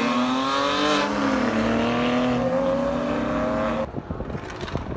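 A sports car's engine revving loudly as it accelerates, its pitch climbing, dipping briefly and climbing again, then stopping abruptly about four seconds in, followed by faint ticks and clicks.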